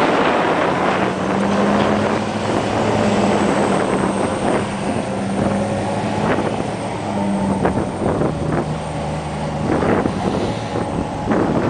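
Terex haul truck's diesel engine running steadily, with wind noise on the microphone and a few scattered knocks.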